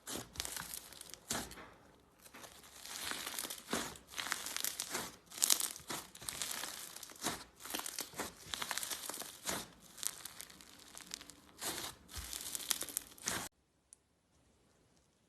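Slime being squeezed and stretched by hand, making dense crackling in uneven bursts with many small pops, until it stops abruptly near the end.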